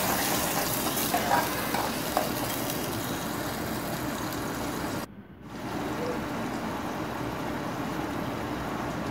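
Ground masala paste sizzling as it fries in hot oil in a small metal pot, stirred with a steel spoon. The sizzle cuts out for about half a second a little past halfway, then carries on.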